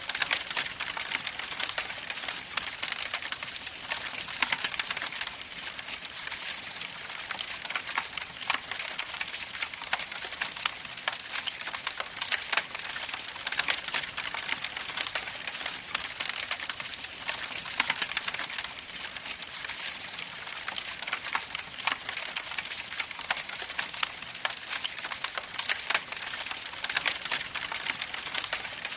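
Wood fire crackling steadily, with many small pops and snaps over a continuous hiss.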